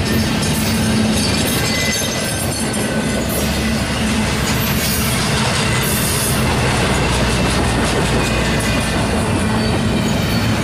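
Double-stack intermodal freight train rolling past at track side: a steady loud rumble of steel wheels on rail, with repeated sharp clicks from the wheels.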